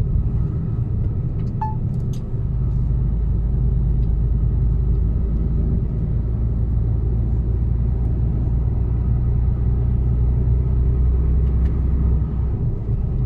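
Mercedes-Benz Actros truck's diesel engine running while driving, heard from inside the cab as a steady low drone with road rumble. The deep part of the drone swells about two and a half seconds in and eases again near the end.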